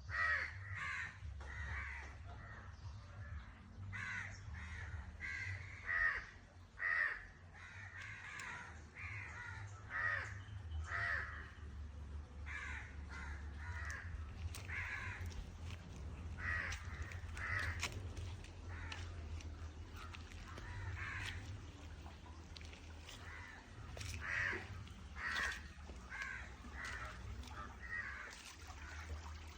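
Birds calling with short, harsh calls, repeated irregularly about once a second and sometimes in pairs, over a steady low rumble.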